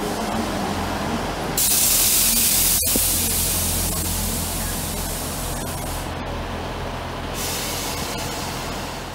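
ScotRail multiple-unit train moving out along the platform, with a steady low running hum. About a second and a half in, a loud sudden hiss starts and then slowly dies away; a second, weaker hiss comes near the end.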